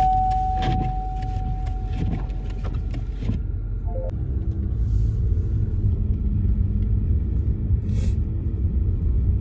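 Car driving, a steady low road rumble, with a run of irregular clicks in the first three seconds.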